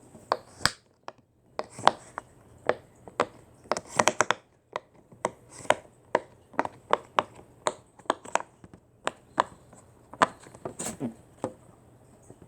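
A run of short, sharp taps or knocks at an irregular pace, about three a second.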